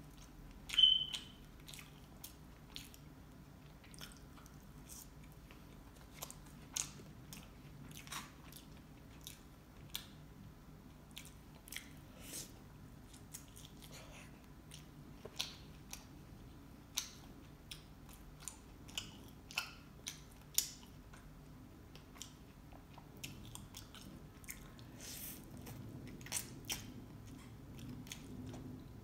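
Close-up eating sounds of Cajun chicken wings and fries: chewing and biting with scattered sharp mouth clicks every second or so. The loudest is one brief high-pitched click about a second in.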